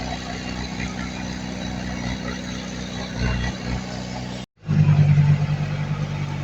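Heavy earthmoving machinery's diesel engine running steadily. It cuts out for a moment about four and a half seconds in, then comes back louder for about a second before settling again.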